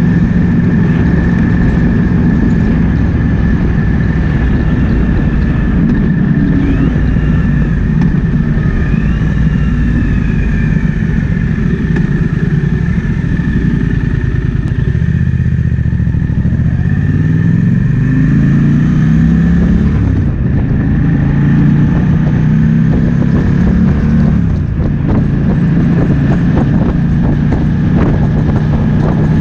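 Triumph Speed Twin 1200's parallel-twin engine running under way, with wind rushing past. About halfway through, the engine note drops as the bike slows, then rises again as it accelerates back up to speed.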